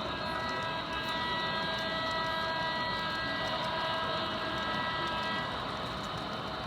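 Sound-equipped model train giving a steady, pitched sound of several stacked tones that fades out about five and a half seconds in, over a steady background hiss.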